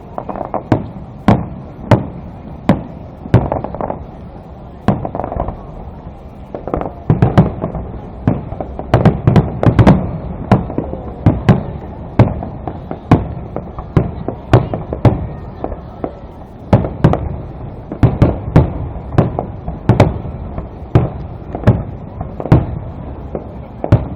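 Fireworks display: aerial shells bursting one after another in sharp, irregular bangs, about one or two a second, with denser volleys about halfway through and again near the end.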